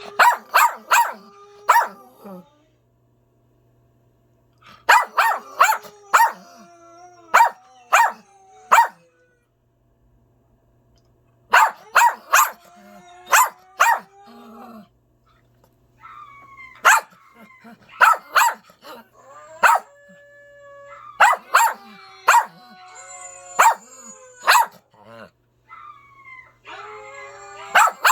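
A dog barking in quick bursts of several barks each, with pauses of about two seconds between the first bursts.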